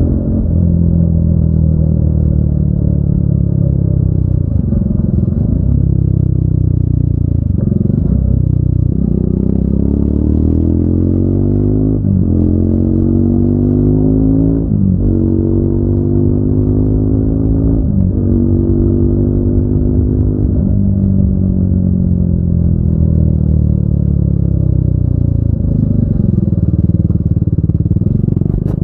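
Triumph Speed 400's single-cylinder engine and exhaust pulling through the gears. The revs climb and drop sharply at each upshift, about five times in the first twenty seconds, then fall away as the bike slows and rise again near the end.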